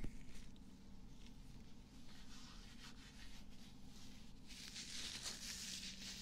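ASMR ear-cleaning sounds: soft scratching and rubbing close to the microphone, turning into a louder crackly rustle about four and a half seconds in.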